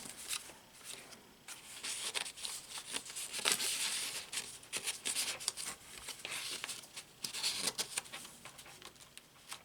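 Paper rustling and crinkling, with short light clicks, as the pages and inserts of a handmade paper journal are turned and handled.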